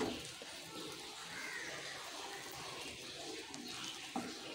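Egg and bread omelette frying gently over a low flame in a non-stick pan: a faint, steady sizzle, with a light tap about four seconds in.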